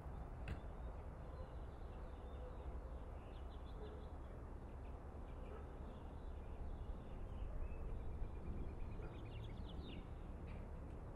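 Small songbirds chirping now and then, with one quick trill of evenly spaced notes about two-thirds of the way through, over a steady low background rumble.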